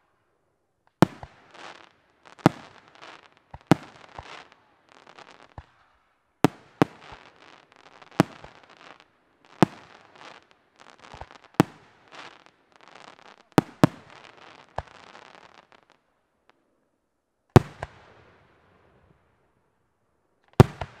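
Aerial firework shells bursting in a quick series, a sharp bang about every second or so, each followed by a short noisy trail. After a brief lull there are two more single bangs near the end.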